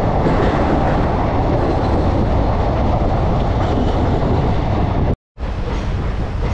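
Moving express passenger train heard from its open coach doorway: a loud, steady rumble and rattle of the coaches running on the track. It cuts out abruptly for a moment about five seconds in, then carries on a little quieter.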